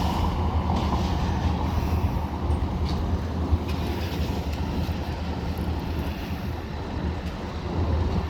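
Heavy diesel vehicle engine idling steadily with a low, even rumble.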